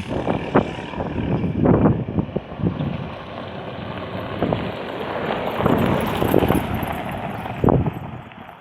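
A dirt bike engine running, with wind buffeting the microphone and irregular knocks and swells throughout.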